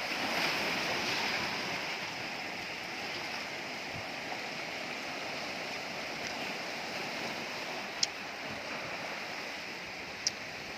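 Sea surf washing steadily on the shore, with two sharp clicks near the end.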